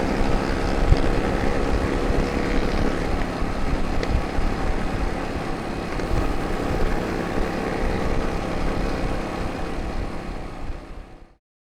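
Motorcycle engine running steadily while riding through street traffic, with a constant low rumble underneath; the sound fades and cuts out near the end.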